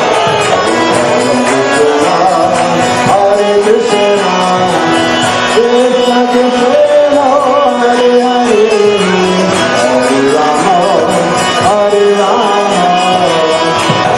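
Indian devotional music: a voice sings a winding melody over held instrumental notes, with steady hand-drum and cymbal percussion.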